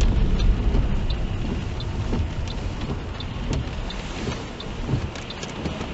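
Steady road and engine noise heard from inside a moving car on a wet road, with scattered light ticks.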